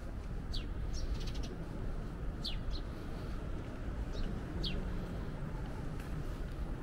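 Birds chirping: a handful of short, sharp calls falling in pitch, and a quick stuttering call about a second in, over a steady low rumble of background noise.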